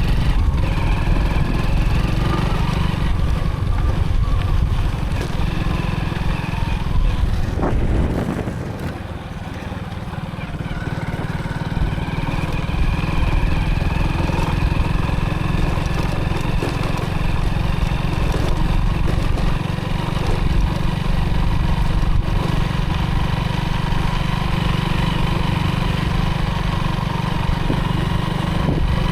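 Motorcycle engine running while riding, with a steady low rumble. It eases off about eight seconds in, then picks up again, its pitch slowly rising as it gathers speed.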